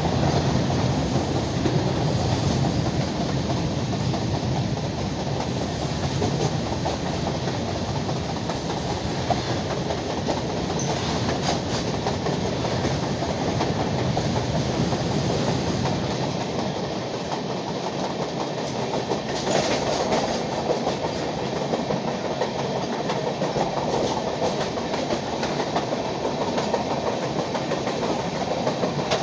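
LHB passenger coaches running on the rails: a steady rumble of wheels on track with scattered clicks over rail joints. The deepest part of the rumble thins a little past halfway through.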